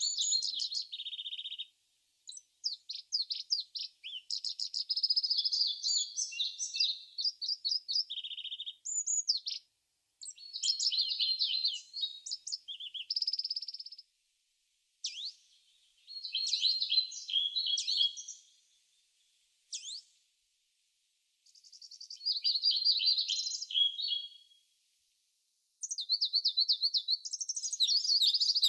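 A songbird singing in phrases of high, quick twittering and trills, each lasting one to three seconds, with gaps of complete silence between them.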